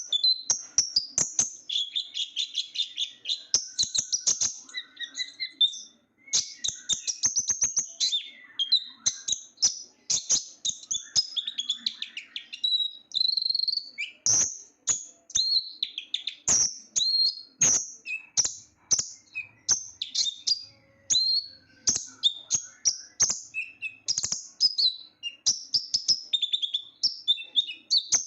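A small sunbird, the Indonesian kolibri ninja or konin, singing hard: fast, shrill, high-pitched twittering phrases and trills with sharp ticks between the notes and short pauses, one of them about six seconds in.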